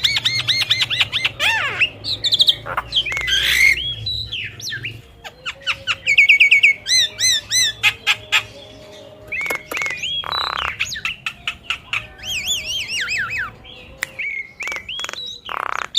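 Oriental magpie-robin (kacer) singing: a varied string of rapid repeated chirps and clear whistled notes, broken by short pauses. Two brief rushing noises come about ten seconds in and near the end.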